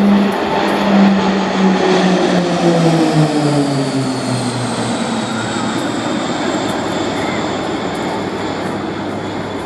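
Propeller-driven aircraft passing low and fast: the engine note drops sharply in pitch as it goes by, then settles into a lower, steady drone that slowly fades.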